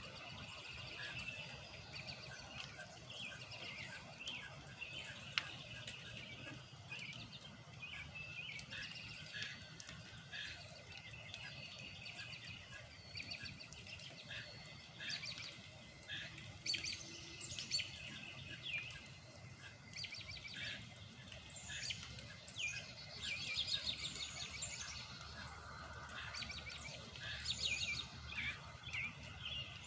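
Several birds chirping and trilling in quick, overlapping calls, growing busier about halfway through, over a steady low hum. A single sharp click about five seconds in.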